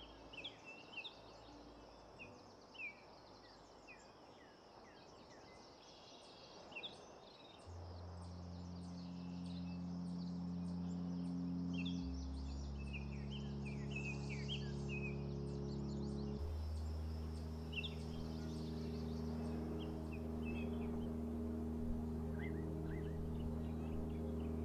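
Forest birds chirping and calling over a steady high insect hum. About eight seconds in, a low sustained ambient music drone comes in and becomes the loudest sound, shifting chord every few seconds.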